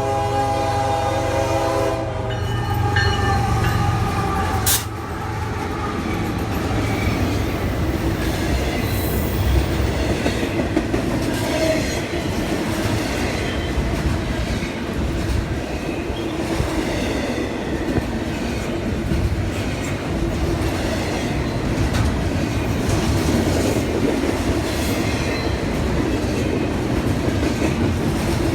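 Locomotive air horn sounding a chord of several notes, cutting off about two seconds in, then a train rolling by with a steady rumble and wheels clacking over the rail joints.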